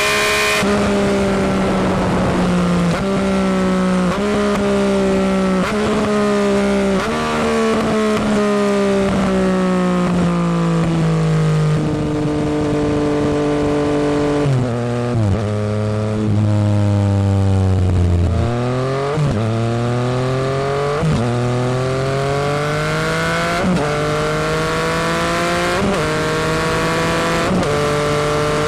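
Yamaha FZ-09's 847 cc inline three-cylinder running through a Delkevic full exhaust while riding. The engine note sinks with each of several short jumps up in pitch, as when shifting down while slowing, stays lowest a little past the middle, then climbs steadily through the gears.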